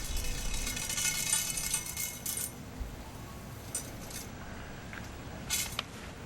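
Metallic jingling and clinking: a dense shimmer of jingles for the first two seconds or so, then a few separate clinks.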